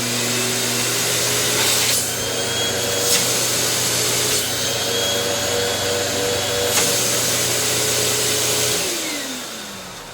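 Hoover Turbo Empower 4600 upright vacuum cleaner running loud and steady after being switched on, its motor whine settling in over the first couple of seconds, with a few short knocks. Near the end it is switched off and the motor winds down with a falling whine.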